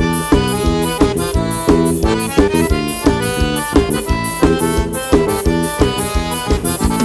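Forró band playing an instrumental passage: accordion carrying the melody over a steady, evenly pulsing percussion beat.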